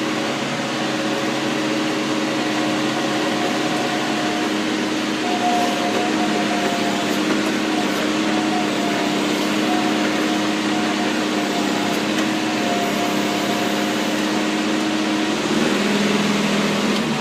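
John Deere 6230 tractor's diesel engine running steadily under way, heard from inside the cab as an even hum with steady tones; about fifteen seconds in the engine note shifts as engine speed changes.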